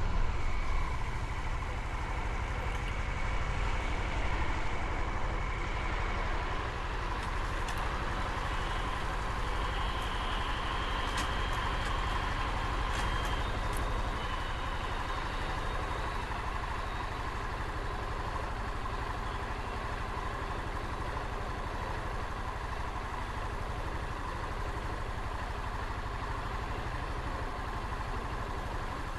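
Motorcycle running on a ride through city streets: steady engine and road noise, a little louder in the first few seconds.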